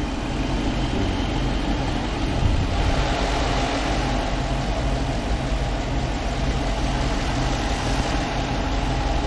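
5.7-litre V8 engine idling steadily just after a top overhaul. The knocking from its left side, caused by failed hydraulic lifters that wore the camshaft, is gone.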